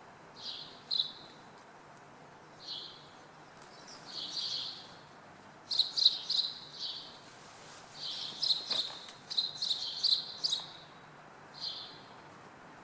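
Small birds chirping: short, high chirps, scattered at first, then coming in quick runs about halfway through and again a little later.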